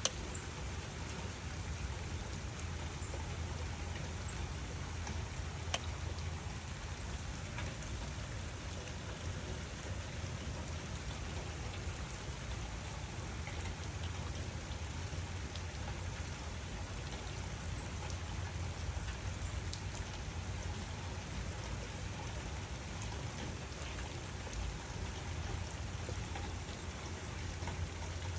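Steady rain falling, with scattered single drops ticking through it over a steady low rumble.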